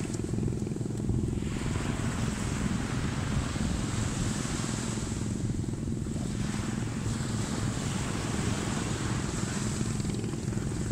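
Ocean surf washing in and out, its hiss swelling and fading, over a steady rumble of wind on the microphone.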